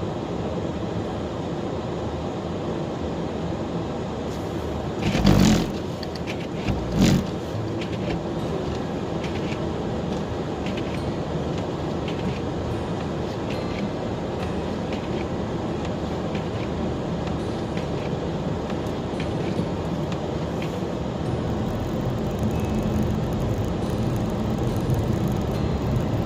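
Steady road and engine noise of a car being driven through snow, with two loud thumps about five and seven seconds in.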